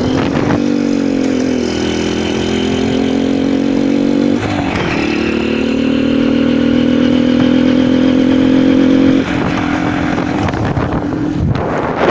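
KTM Duke motorcycle engine running with its air filter and airbox cover removed, which changes its sound. It is revved briefly about half a second in, revved again and held for about five seconds, then drops back to idle near the end.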